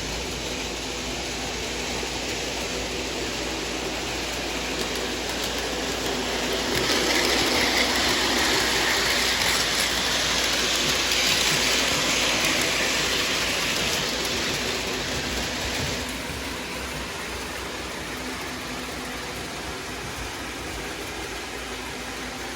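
Freight train running on the rails: a steady rumble and hiss of wheels and cars, swelling louder from about a third of the way in and dropping suddenly about two-thirds through.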